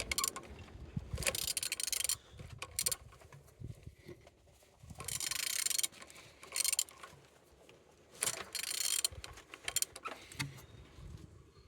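A used car engine being turned over by hand, in several separate strokes of rasping, metallic mechanical noise with short pauses between them. It turns freely, which shows the engine is not seized.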